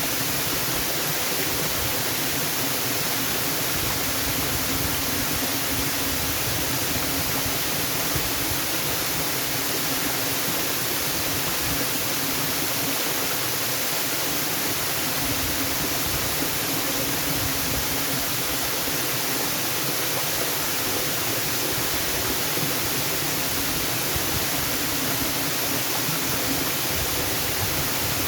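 Waterfall: a steady, unbroken rushing of falling water.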